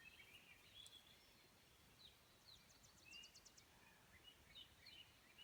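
Faint birdsong from several songbirds in a spring meadow: scattered high chirps and short whistles, with a quick trill of about eight notes a second about two and a half seconds in.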